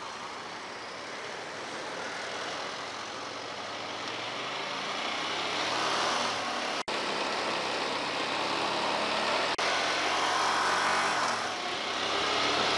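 Hyosung GT250R 250 cc V-twin motorcycle engine running while ridden in city traffic, under a steady rush of road noise that slowly grows louder. The sound drops out for an instant twice, about halfway through.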